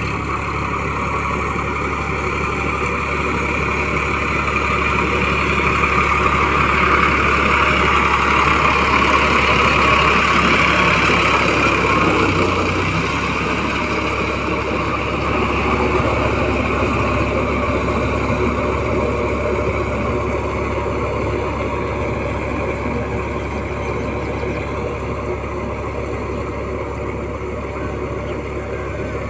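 Massey Ferguson 9000 tractor engine running steadily under load while puddling a muddy field, swelling a little in loudness midway and easing off again.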